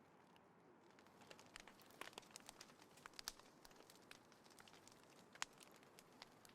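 Small bonfire crackling quietly, with irregular sharp pops and snaps; the loudest pop comes about five and a half seconds in.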